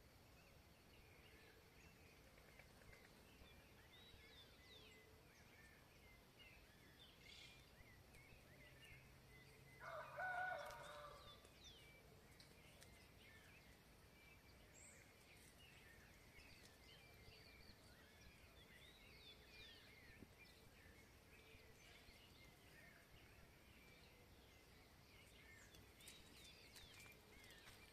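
Faint background chorus of songbirds chirping and trilling, with one louder rooster crow lasting about a second and a half, about ten seconds in.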